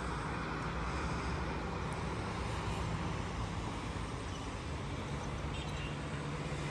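Steady hum of distant road traffic, an even outdoor noise without any single standout event.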